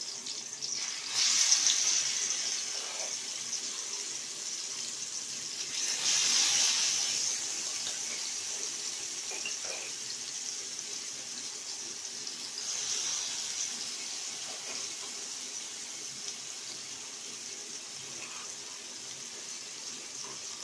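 Spice paste sizzling in hot oil in a wok: a steady frying hiss that flares louder about a second in, again around six seconds, and more briefly near thirteen seconds.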